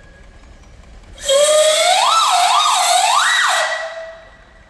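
Steam traction engine's whistle blown in one long blast starting about a second in. Its pitch swoops up and down twice, jumps higher, then drops and fades out near the end.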